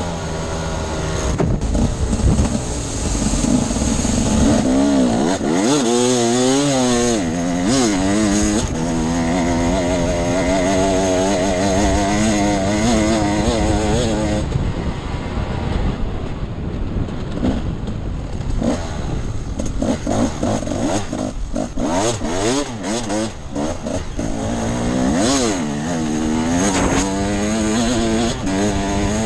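Enduro dirt bike engine being ridden off-road, revving up and down again and again as the throttle opens and closes, over a steady rushing noise.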